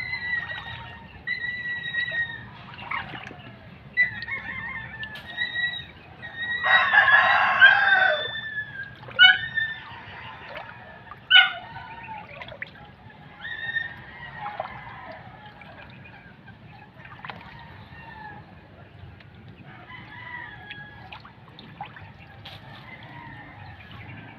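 Chickens clucking and calling, with a longer, louder call about seven seconds in like a rooster's crow, over a low steady background noise.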